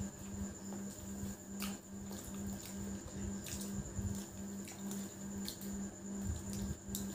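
Wet mouth sounds of eating soft boiled eggs without hands, with a few small clicks, over a low hum that pulses about three times a second.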